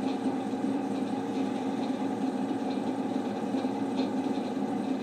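1979 Emerson Casablanca friction-drive ceiling fan running on its highest setting, a steady mechanical drone with a few faint ticks. At this setting it turns no faster than on low and just makes more noise.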